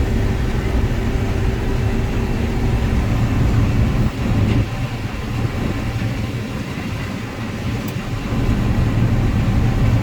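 Combine harvester running in the corn field, heard from inside the cab: a steady low machine drone with faint humming tones, easing off slightly for a few seconds midway and then coming back up.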